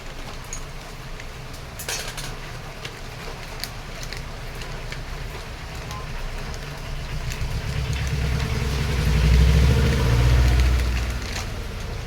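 A motor vehicle passing close by: its low rumble swells, peaks and fades over about four seconds near the end. A few sharp metallic clicks of tools are heard earlier.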